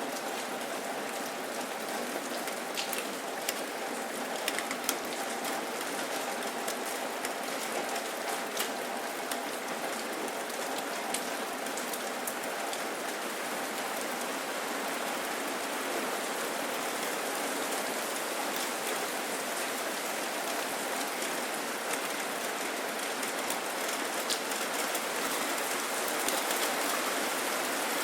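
Steady rain falling: a dense, even hiss with scattered sharper drop ticks, more of them in the first half, and a faint steady hum underneath.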